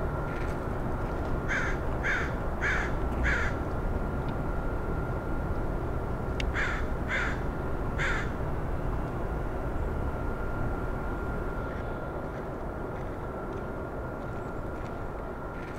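A bird giving short, sharp calls: four in quick succession, then three more a few seconds later. Beneath them runs a steady low outdoor rumble and a faint steady high tone.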